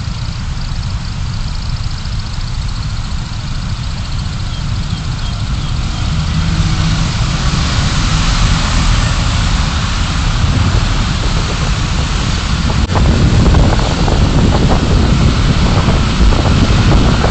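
Car engine and road noise: a low steady rumble that grows louder about six seconds in as the car gathers speed, and louder again from about thirteen seconds with more road and wind noise. A single sharp click comes at about the same moment.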